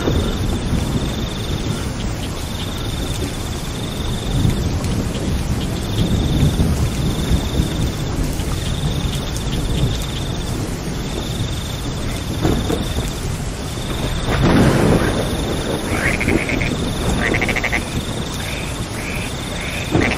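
Steady rain with low rumbles of thunder, loudest about fourteen seconds in. A high trill repeats in short bursts about a second long throughout, and frogs croak in quick pulsed calls in the last few seconds.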